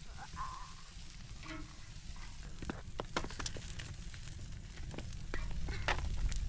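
Steak and chicken sizzling on a grill over a campfire, with scattered sharp pops and crackles.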